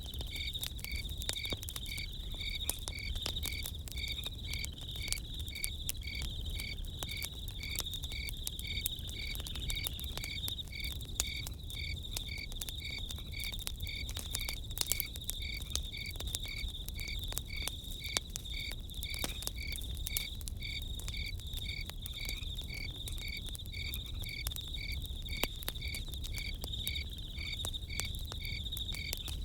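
Crickets chirping in an even rhythm of about two chirps a second over a continuous high insect trill, with a campfire crackling and popping throughout.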